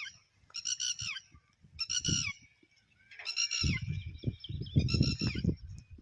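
A bird at a pond calling four times, each a short harsh honking call that falls in pitch, spaced about a second apart. Low rumbling noise joins in during the second half.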